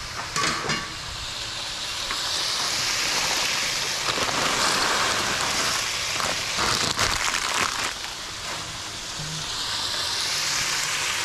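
Cubed grouper fillets sizzling steadily in a hot cast iron skillet. Brief clatters come in the first second and again around the middle, as dry pasta is tipped into a pot of boiling water.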